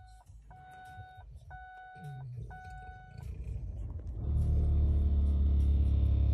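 A dashboard chime sounds four times, about once a second. Then the 2005 Lincoln Navigator's 5.4-litre V8 cranks briefly and starts about four seconds in, settling into a steady low idle.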